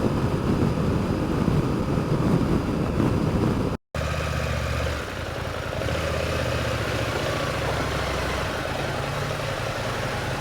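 2024 KTM 790 Adventure's parallel-twin engine running while being ridden, mixed with wind noise. After a brief break about four seconds in, the engine hum is steadier, with a few small shifts in engine speed.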